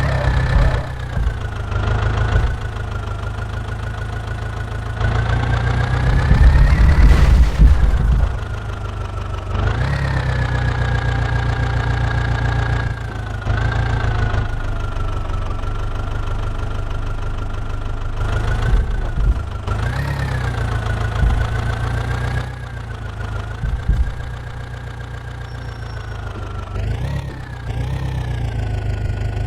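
Diesel engine of a JCB 3DX backhoe loader running and revving up and down over and over as it works its hydraulics. There is a loud low rumbling surge about six to eight seconds in.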